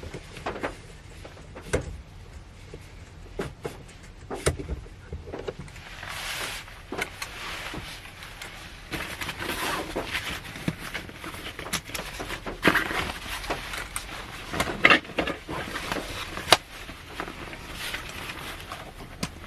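Rain drops tapping irregularly on the roof and body of a Honda Step Wagon minivan, heard from inside the cabin over a steady hiss of rain.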